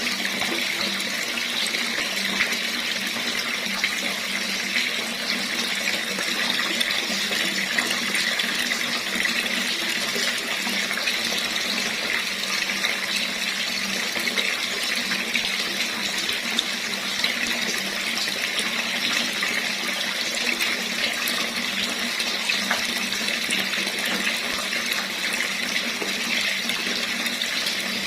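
Water running steadily from a tap, an even splashing rush with no change in strength.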